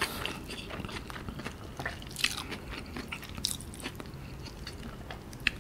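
Close-miked chewing of a mouthful of crispy fried chicken and melted cheese, with soft wet mouth sounds and a few sharper crunches of the breading.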